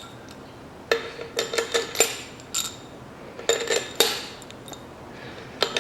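Steel cylinder-head bolts with captive washers clinking against each other and the metal head as they are handled and set into their holes. Sharp metallic clinks with a short ring come in small clusters, about a second in, around two seconds, around four seconds and again near the end.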